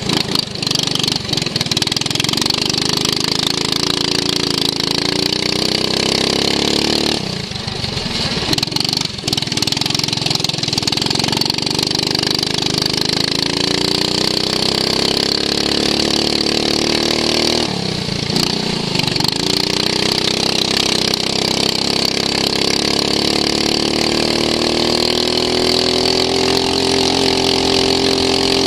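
Racing lawn mower engine under hard throttle, recorded onboard. Its pitch climbs steadily, then dips briefly twice, about seven seconds in and again about eighteen seconds in, as the throttle comes off for corners and picks back up.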